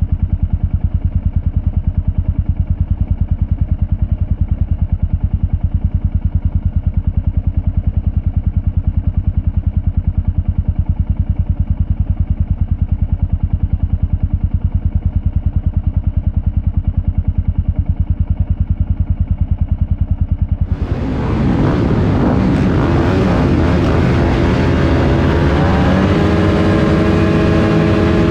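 Dirt bike engine running, heard muffled and pulsing; about two-thirds of the way through the sound switches abruptly to a louder, clearer dirt bike engine that revs with rising pitch near the end.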